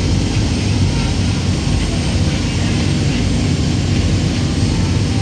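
Steady low drone of a passenger ferry's engine underway, with a constant hiss over it.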